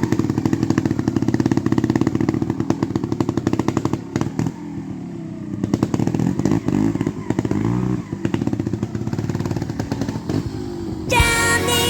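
Beta EVO trials motorcycle engine running, its revs rising and falling repeatedly as the throttle is blipped. Music comes in near the end.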